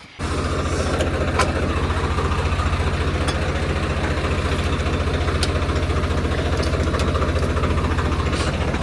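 Tractor engine idling steadily, with a fast even chugging pulse; it comes in abruptly at the start.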